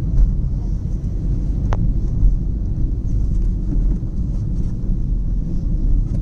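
A car driving on the road: a steady low rumble of engine and road noise, with a single sharp click about two seconds in.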